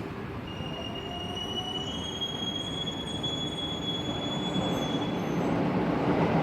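Electric commuter train passing with a high, steady wheel squeal from about half a second in until about five seconds in, over the rumble of the running train, which grows louder toward the end.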